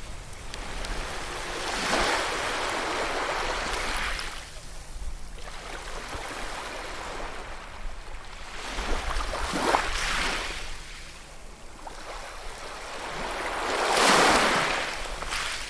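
Ocean waves breaking and washing up the shore in three surges about four to five seconds apart, the last and loudest near the end.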